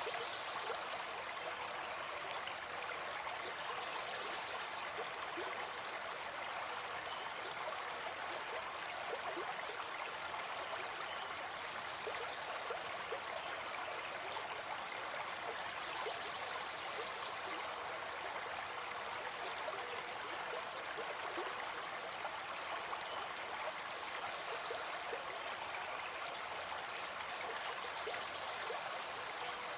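Gentle forest stream flowing steadily.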